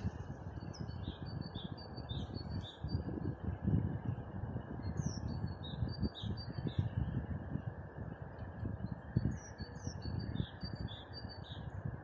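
A songbird sings the same short phrase of high, quick notes three times, about every four seconds. Beneath it runs a steady rushing background with gusty low rumbles.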